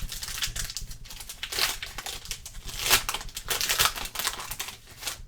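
A trading-card pack wrapper being torn open and crinkled by hand, irregular crackling rustles with a few sharper tears.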